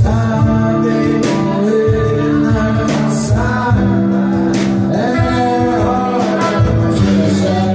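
Live song: singing over guitar accompaniment, with a steady beat.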